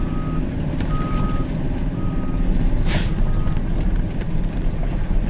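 A truck's backup alarm beeping about once a second, four beeps that stop about three and a half seconds in, over the steady low rumble of a diesel truck engine. A short loud hiss of air, like an air brake release, comes about three seconds in.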